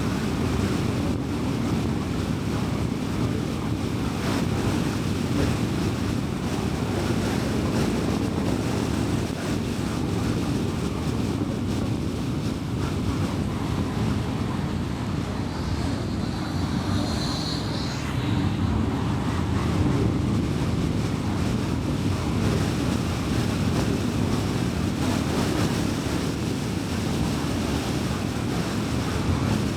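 Steady low rumble of tyres and engine from a car being driven, with a faint high whistle briefly about seventeen seconds in.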